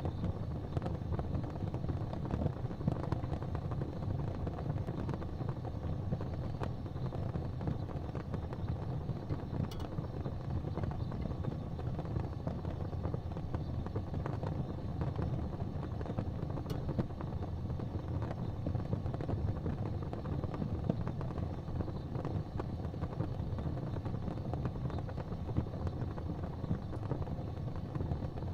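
Fire burning in a fireplace: a steady low rumble with a few faint crackles.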